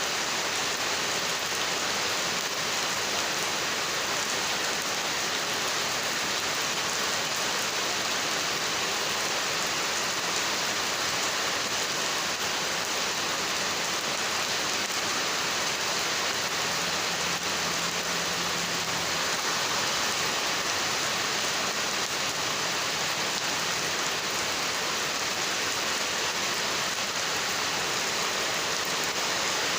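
Heavy rain pouring down steadily, an even hiss of countless drops that never lets up.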